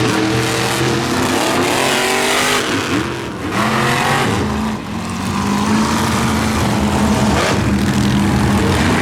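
Monster truck engines revving, their pitch rising and falling, with short let-offs about three and five seconds in.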